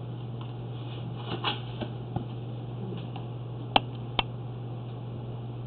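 A steady low hum with a few faint rustles, then two sharp clicks about half a second apart about four seconds in.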